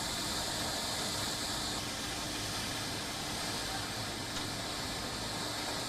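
Steady hissing noise without distinct events.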